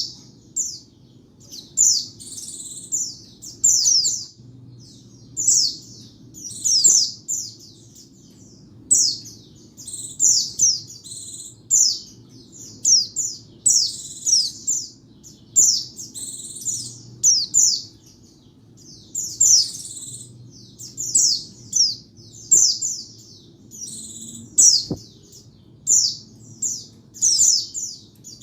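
White-eye (pleci) singing: short, high bursts of quick downward-sweeping chirps, repeated about once a second, over a faint low hum.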